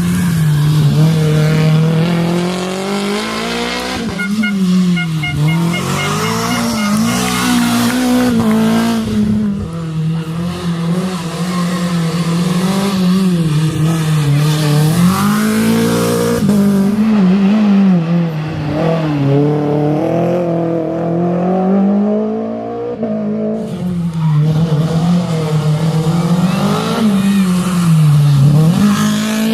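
The 2.0-litre four-cylinder engine of a Renault Clio Williams rally car is worked hard. Its pitch repeatedly climbs under throttle and drops at gear changes and lifts.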